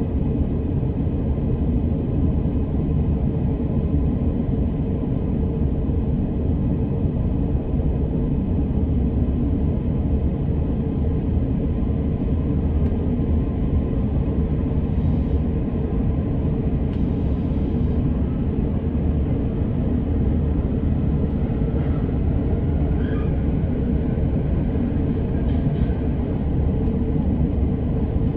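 Steady low rumble inside an electric commuter train car, with a faint steady hum and a few faint brief higher sounds partway through.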